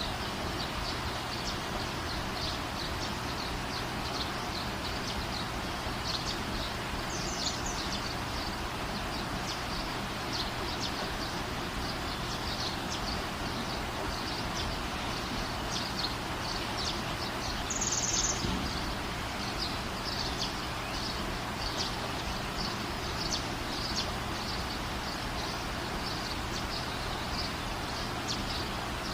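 Steady rain falling, an even hiss throughout, with many short high chirps scattered over it and two louder ones, at about 7 seconds and 18 seconds.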